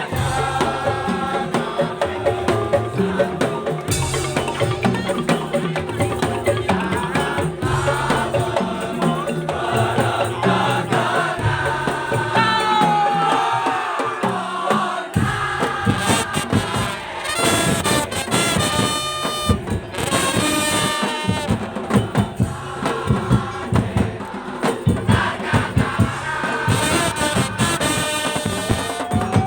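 Madurese daul (tongtong) ensemble playing a song: a dense, driving percussion rhythm of drums and struck bamboo under a melody line.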